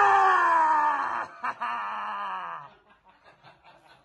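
A long scream that jumps up in pitch and then slowly falls, fading out after about two and a half seconds.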